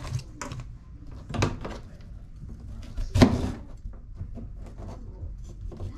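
Kitchen handling clatter: irregular knocks and clicks as things are set down and moved, with two louder knocks about a second and a half and three seconds in.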